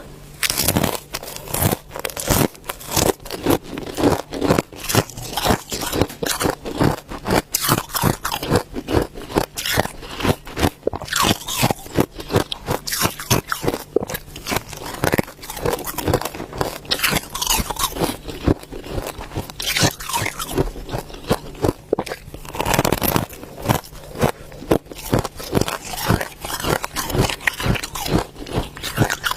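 Ice being bitten and chewed: a rapid, unbroken run of sharp crunches and cracks as the pieces break between the teeth, with a louder burst of crunching about 23 seconds in.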